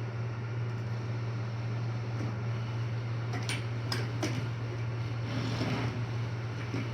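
Air hockey table's blower running with a steady hum. A few sharp clicks come around the middle, then a short rush of noise.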